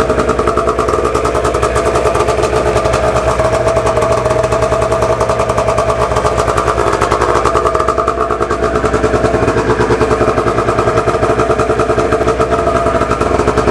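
1998 Arctic Cat ZR600 EFI snowmobile's two-stroke twin engine running steadily just after a cold start, following about 18 days unused. Its even, rapid firing pulses hold steady throughout.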